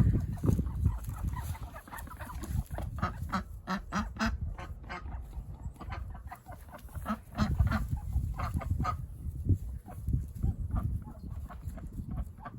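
Domestic ducks calling, a long run of short, rapid quacks.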